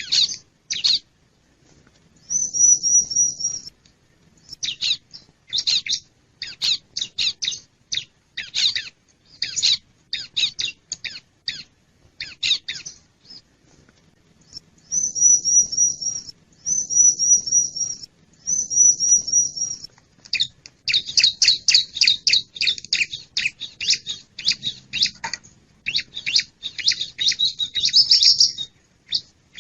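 Bar-winged prinia (ciblek) calling: series of sharp, high chipping notes broken by short, rapid high trills. Near the end the notes come in a fast, dense run.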